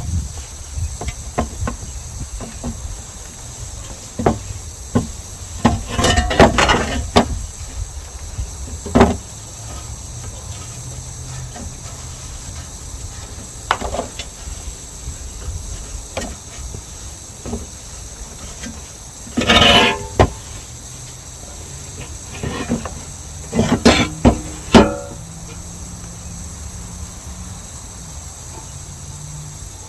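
Handling noise from working on a sheet-metal battery tray: scattered knocks and clatters, with three louder bursts of rattling, about a quarter, two-thirds and four-fifths of the way through.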